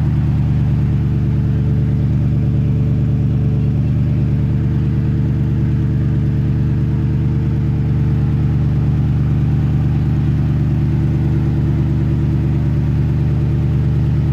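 Supercar engine idling steadily, a low even note that holds without any revving.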